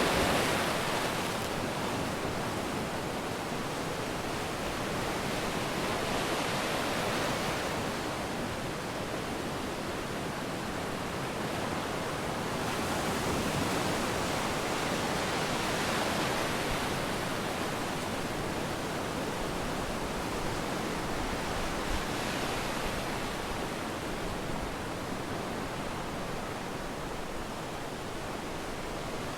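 Sea waves breaking and washing up a beach, a steady rushing noise that swells and eases every several seconds as each wave comes in.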